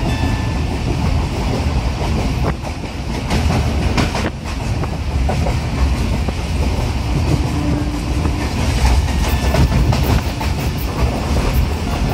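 Pakistan Railways Allama Iqbal Express passenger coaches running at speed, heard from on board: a steady rumble with the clickety-clack of wheels over rail joints, the clicks coming quicker near the end.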